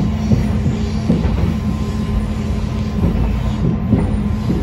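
Moving diesel railcar heard from inside the cabin: a steady engine hum under running noise, with the wheels knocking irregularly over the rail joints.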